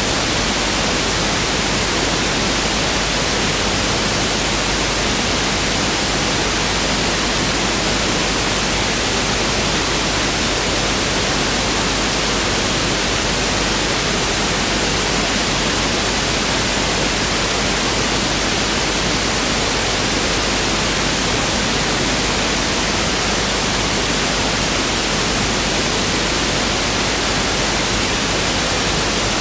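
Pink noise (1/f noise) test signal: a steady, unchanging hiss across the whole range of pitch.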